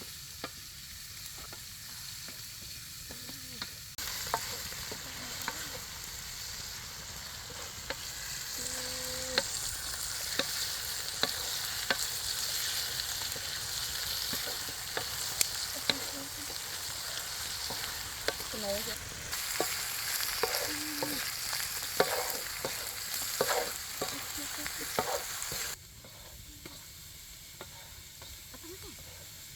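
Food frying and sizzling in a pan while it is stirred, with the spatula clicking against the pan now and then. The sizzle grows louder about four seconds in and drops back sharply near the end.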